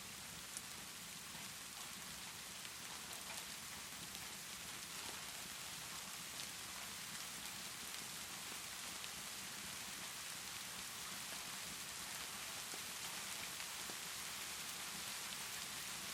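Steady rainfall: an even hiss with faint scattered clicks of drops.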